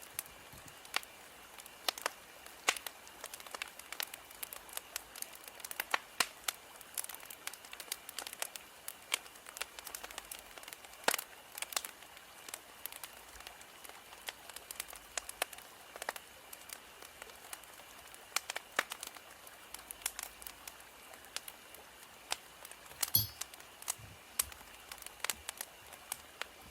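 Wood fire crackling, with irregular sharp pops and snaps over a soft hiss. There is a heavier knock near the end.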